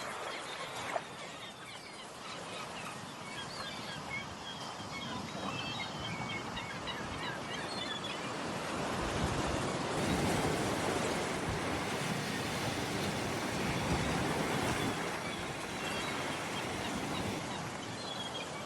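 Sea waves washing onto the shore, a steady surf noise that swells and eases, with some wind.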